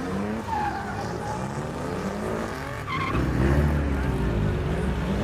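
Car engine revving, its pitch rising and falling repeatedly, with a heavier low rumble from about three seconds in.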